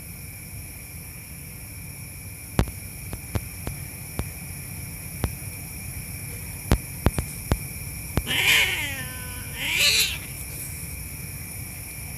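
Cat screaming during mating: two loud, harsh yowls about a second apart, the first falling in pitch. Several sharp clicks come before them.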